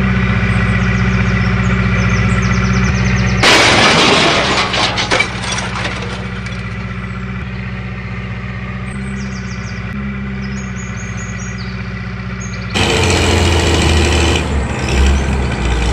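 A motor vehicle engine running steadily, in spliced segments that change abruptly about 3.5 seconds and 13 seconds in.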